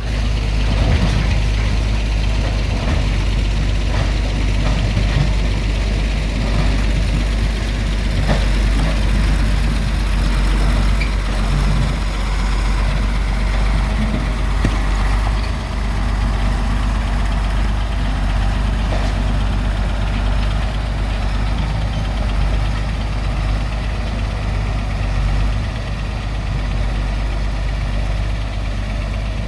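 Volvo excavator's diesel engine running steadily with a deep, constant low rumble, with a few faint knocks over it.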